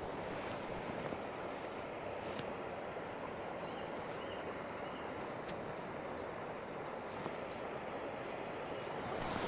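Steady rush of fast, high floodwater in a river, with a small bird giving short, high, rapid trills every second or two above it.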